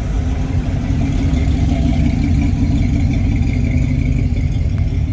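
A vehicle engine running steadily at low speed, a deep continuous rumble with a faint steady whine above it.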